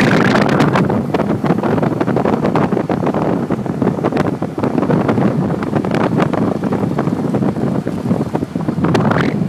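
Heavy wind buffeting the microphone: a loud, gusty rumble with rapid crackles, as from airflow on a moving ride.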